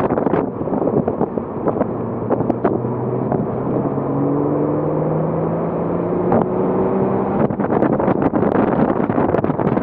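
Porsche Cayman S's 3.4-litre flat-six heard on board, its note climbing steadily for several seconds as the car accelerates. Wind buffets the microphone at the start and again over the last couple of seconds.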